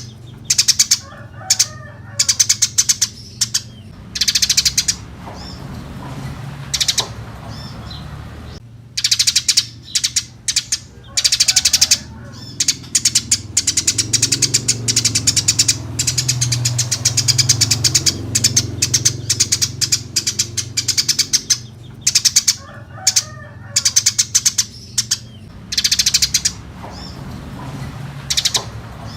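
Eurasian tree sparrows chattering: clusters of rapid, high chirps repeated every second or two, with short pauses between, over a low steady hum.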